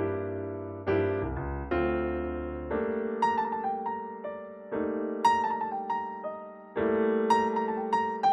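Background piano music: chords and a melody of struck notes that ring and fade.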